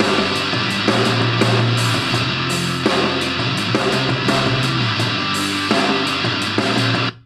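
Hard rock music with electric guitar and a steady drum beat, cutting off abruptly near the end.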